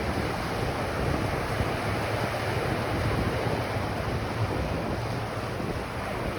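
Ocean surf washing steadily onto a beach, a continuous hiss of breaking waves with wind rumbling on the microphone.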